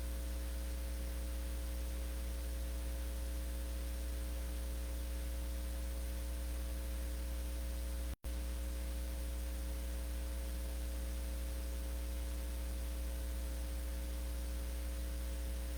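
Steady electrical mains hum with a layer of hiss on an audio feed, with no voices or music. It cuts out completely for an instant about eight seconds in.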